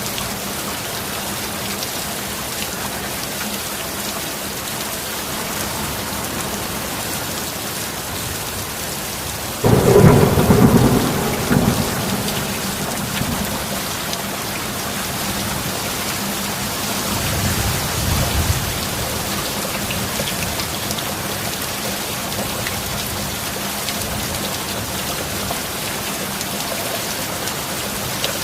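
Steady heavy rain, with a sudden loud thunderclap about ten seconds in that rumbles on for a couple of seconds, and a softer roll of thunder a few seconds later.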